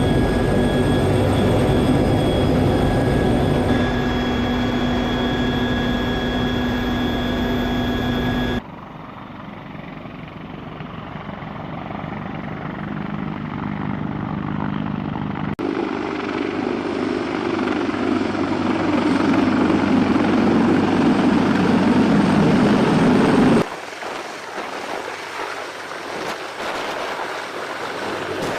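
CH-53K King Stallion heavy-lift helicopter's rotors and turbine engines running, across several edited shots. At first a steady whine sits over the dense rotor noise. Abrupt cuts come about 9 and 16 seconds in, each followed by a stretch that grows louder, and a sudden drop to fainter sound comes about 24 seconds in.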